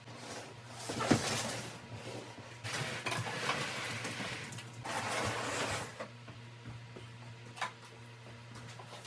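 Household objects being handled and moved: three stretches of sliding and rustling, with a sharp knock about a second in and a few light clicks near the end.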